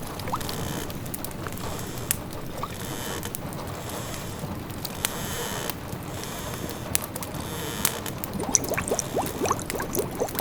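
Layered fireside ambience: a steady patter of rain with the sharp pops and crackles of a wood fire. Near the end a pot of food starts bubbling at a simmer, in quick little rising blips.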